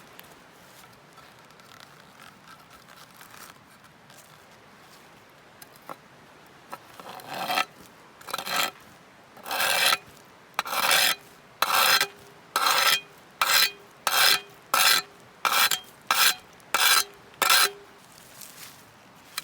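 A run of about a dozen short rasping, scraping strokes, about one a second and getting quicker, starting about a third of the way in.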